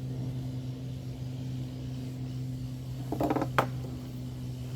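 Brief handling noise from PVC pipe parts being fitted for gluing, ending in one sharp click, over a steady low hum.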